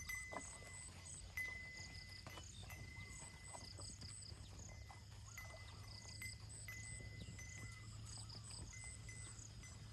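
Faint outdoor insect chorus: high chirps repeating in quick pulses over a steady high-pitched tone that breaks off and resumes, with scattered light clicks and knocks.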